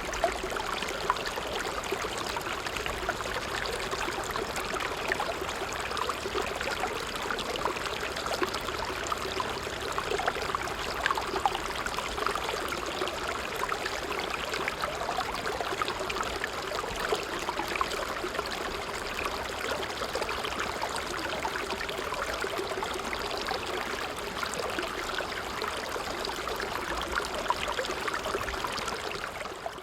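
A stream flowing steadily: an even rush of running water with fine trickling.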